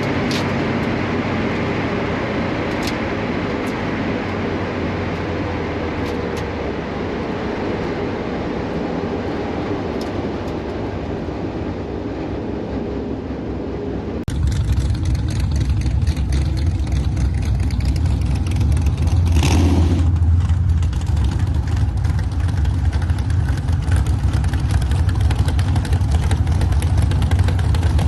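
Car engine running steadily. About halfway through, the sound cuts abruptly to a louder, deeper engine drone.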